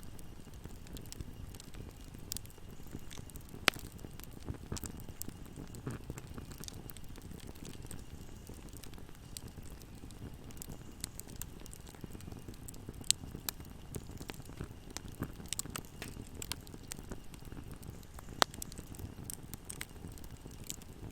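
Fire burning in a fireplace, crackling: a steady low rumble of flame with scattered sharp pops, the loudest about four, thirteen and eighteen seconds in.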